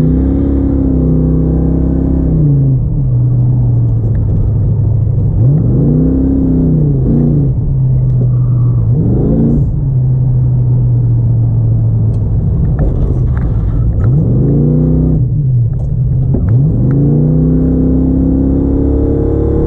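Car engine under hard driving on an autocross course, revving up and easing off repeatedly as the throttle is worked through the turns. Its pitch rises and drops several times.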